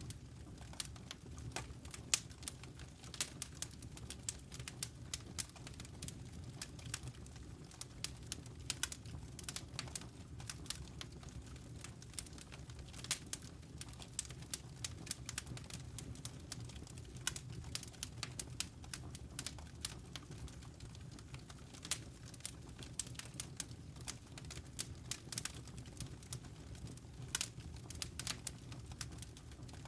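Wood fire crackling: irregular sharp pops and snaps, a few louder than the rest, over a steady low rumble of burning.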